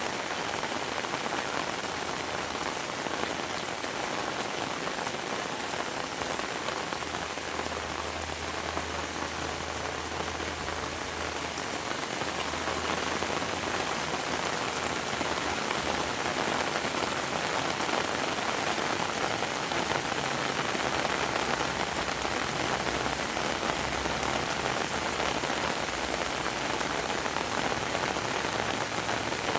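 Heavy rain falling steadily, a dense even hiss of drops, growing a little louder about halfway through.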